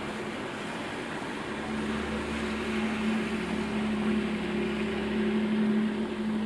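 Steady rain hiss with a motor vehicle's steady engine hum that grows louder through the middle seconds, then eases near the end.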